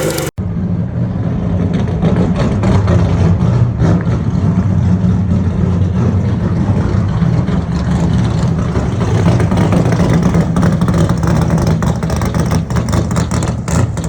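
Race car engine running hard at a steady, fairly low pitch, with an abrupt cut in the sound just after the start.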